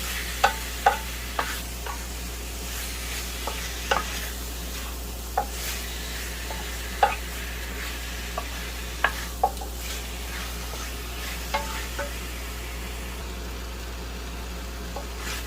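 Chicken thighs sizzling as they fry with onion, garlic and ginger over medium-high heat, with a utensil stirring them and knocking sharply against the pan at irregular moments, a dozen or so times.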